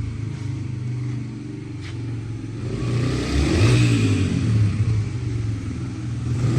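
Yamaha TT-R dirt bike's single-cylinder four-stroke engine running, growing louder to a peak about three and a half seconds in as the bike passes, its pitch rising and then falling, then easing off.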